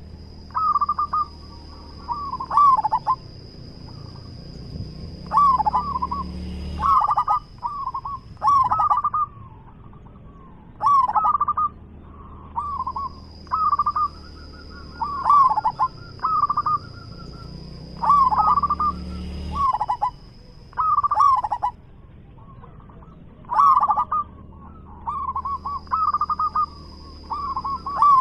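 Zebra dove cooing over and over: short phrases of quick rolling notes, one every two to three seconds.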